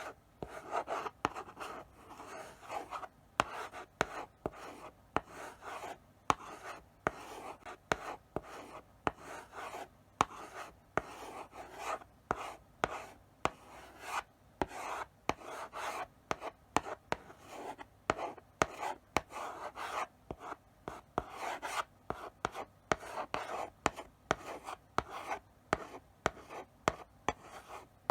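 Chalk writing slowly on a blackboard: short scratchy strokes, each beginning with a sharp tap of the chalk on the board, at an uneven pace of one to three a second.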